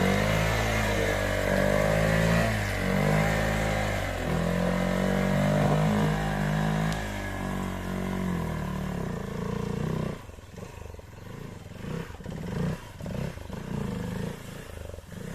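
Hero Xpulse 200 motorcycle's single-cylinder engine revving hard and unevenly, the note rising and falling as the rider works the clutch to pull the bike through loose off-road ground. About ten seconds in the engine note drops away abruptly, leaving quieter irregular clatter.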